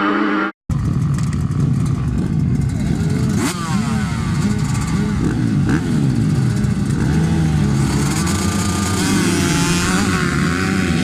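Motocross bike engines revving up and down as they go through the gears, with a brief cut to silence about half a second in.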